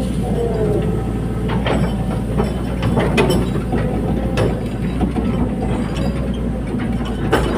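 Hydraulic excavator's diesel engine running steadily under load, with several sharp metallic clanks and clicks from the machine's moving parts.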